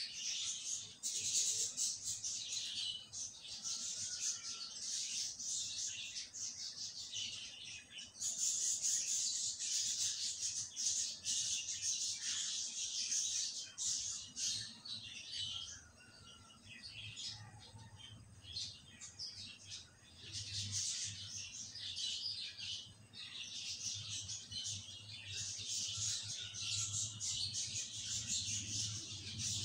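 Birds chirping and twittering almost without pause in a busy, high-pitched chatter, with a faint low hum underneath.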